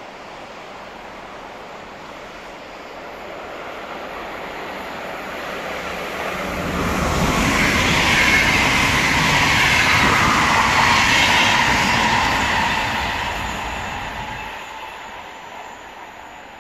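Electric commuter train passing through the station on the far track. It grows louder as it approaches, is loudest for about six seconds with a rushing rumble of wheels on rail and a faint high whine over it, then fades away.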